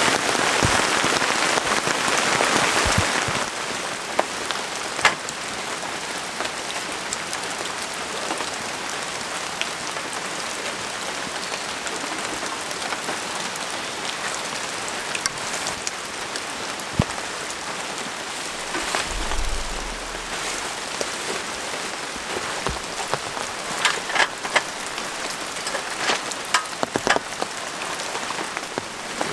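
Steady rain falling, with scattered sharp drops striking close by; heavier for the first few seconds.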